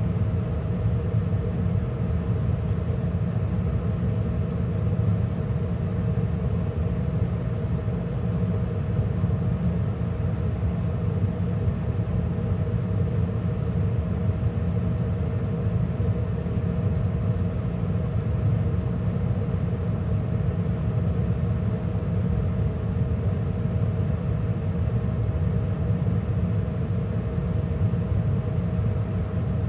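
2013 Carrier gas furnace running steadily mid-cycle, with the burners lit and the inducer and blower fan running: a continuous low rumble with a steady hum.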